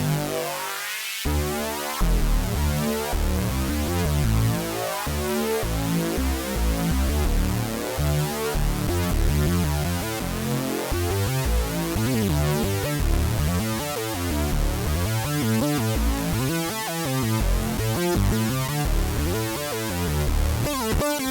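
Korg MicroKORG software synthesizer (VST emulation) playing a preset: a dense, electronic synth passage of shifting pitched notes, with a heavier bass register coming in about two seconds in.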